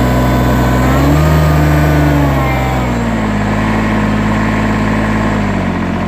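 Ford LGT-14D garden tractor's diesel engine running just after a cold start in freezing weather, revving up about a second in and dropping back a second or so later, then easing to a lower speed near the end.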